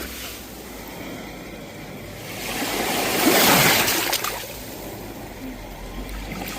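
Sea waves washing onto a shore: a steady rush of surf that swells to a louder breaking wave about three seconds in, eases off, and builds again near the end.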